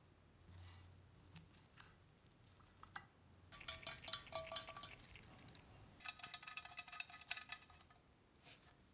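Small metal pieces clinking and rattling against each other with a ringing tone, in two spells of a couple of seconds each, the first starting about halfway in, after a few faint ticks.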